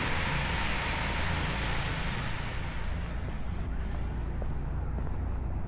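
Traffic noise: a vehicle passing, its hiss fading away over a couple of seconds, over a steady low rumble.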